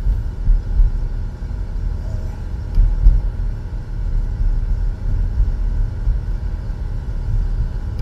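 Low rumble of a Buick being driven, heard from inside the cabin: road and wind noise, uneven, with louder surges about one and three seconds in.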